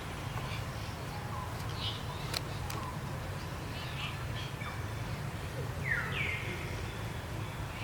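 High-pitched animal calls, each sliding down in pitch and then holding, the clearest about six seconds in, with fainter short chirps between. Two sharp clicks come about two and a half seconds in, over a steady low rumble.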